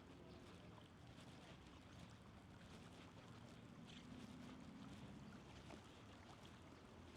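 Faint, steady outdoor ambience of flowing river water, with a faint low hum for a few seconds in the middle.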